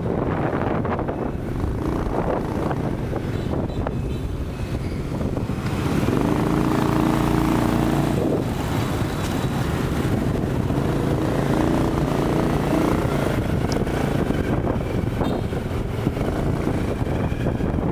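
Motorcycle engine running on the move, with wind buffeting the microphone. The engine note rises and holds twice, about six seconds in and again about ten seconds in.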